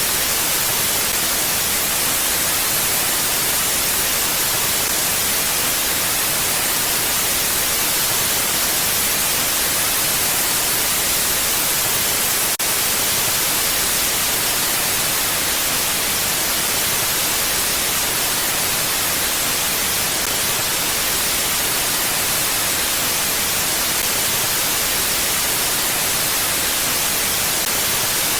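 Steady wind hiss, even and unchanging, bright and high-pitched.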